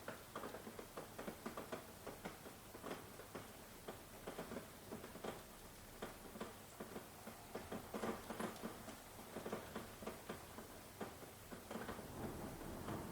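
Rain falling in heavy, irregular drops, pattering and ticking on a hard surface over a soft steady hiss.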